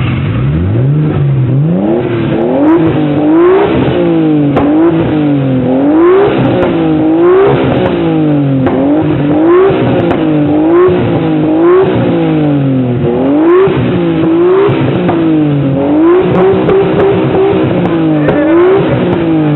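Nissan Skyline engine being revved over and over while stationary, about one quick rise and fall in pitch per second. A brief held high rev comes near the end before the engine drops back toward idle.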